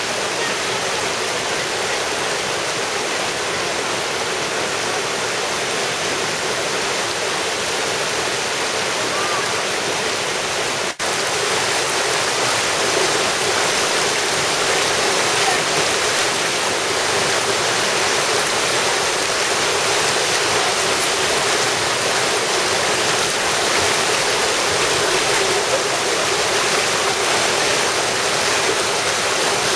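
Steady rush of water from a mountain valley stream, with a split-second break about eleven seconds in.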